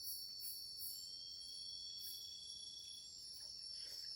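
A chorus of forest insects trilling steadily at a high pitch, with a higher layer that pulses irregularly. A faint thin whistling tone comes in about a second in and lasts about two seconds.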